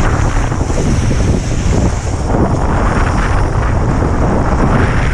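Strong wind buffeting the microphone, loud and unbroken, over the rush of water under a kiteboard.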